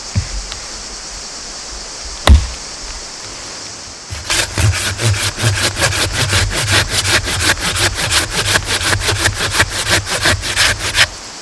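Wood being sawn by hand in quick back-and-forth strokes, about six a second, starting about four seconds in and stopping near the end. A single sharp knock comes about two seconds in, and a steady high hiss runs underneath.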